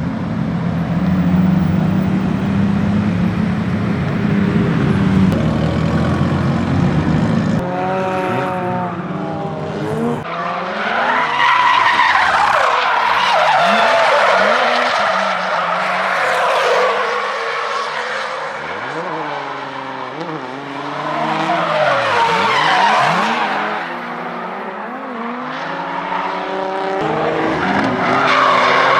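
Turbocharged 2JZ-engined Toyota Aristo drift cars on track: a steady engine drone, then from about eight seconds in the revs rise and fall again and again, with tyres screeching as the cars slide.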